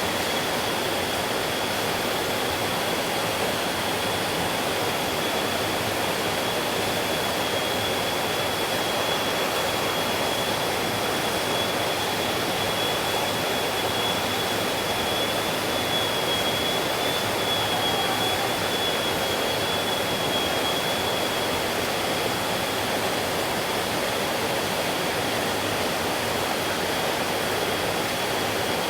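Stream water flowing in a steady, unbroken rush. A thin high steady tone runs through it, clearest in the middle.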